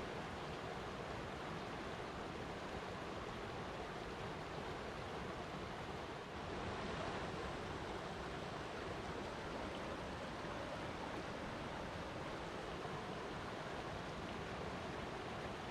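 Flowing water rushing in a steady, even wash of noise, dipping briefly and swelling a little about six seconds in.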